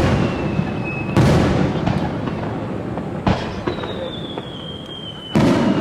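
Fireworks bursting: sudden booms with rumbling tails every one to two seconds, three of them in this stretch. A high whistle slowly falls in pitch through two of the gaps between bursts.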